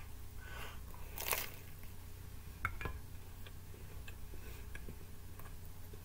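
Biting into a slice of reheated pizza, then chewing it with the mouth closed: a sharp bite at the start, then a few crunches and mouth clicks. A low steady hum runs underneath.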